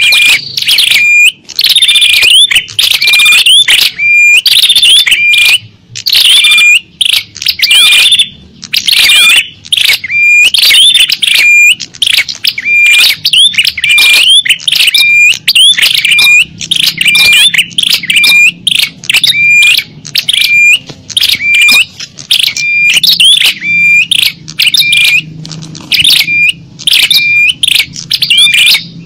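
Recorded small-bird lure call: loud, high chirping notes repeated over and over, about two a second, each ending in a short held whistle.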